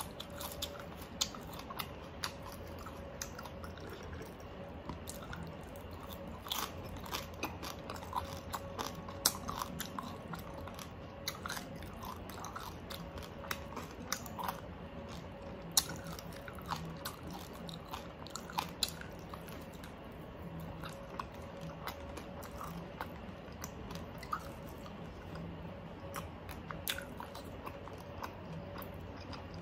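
Close-miked mouth sounds of a person eating crispy oven-baked pork and raw vegetables: steady chewing with short crunches scattered throughout.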